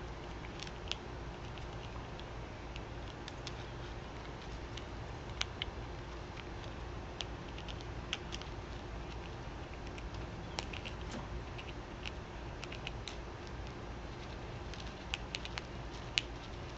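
Irregular small clicks and taps of birds and squirrels pecking and nibbling at food, coming in scattered clusters, over a steady low hum.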